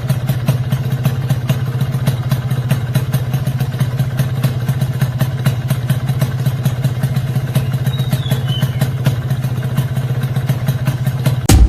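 Honda NSR150SP's single-cylinder two-stroke engine idling steadily through its exhaust, with a fast, uneven popping beat. It cuts off abruptly near the end.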